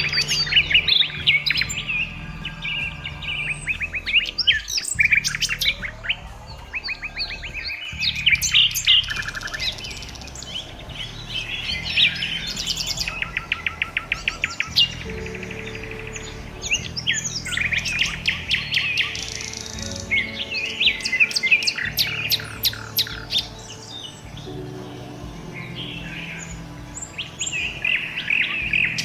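Many small birds chirping and singing together, overlapping sharp chirps and fast trills, over soft background music.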